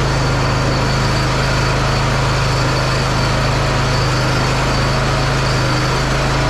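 John Deere zero-turn mower engine running steadily at a constant speed.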